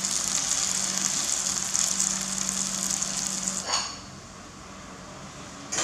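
Shredded potato and pork patties sizzling in hot oil in a nonstick frying pan, with a spatula working them. The frying hiss cuts off suddenly a little over halfway through and gives way to a much quieter room, with a brief knock near the end.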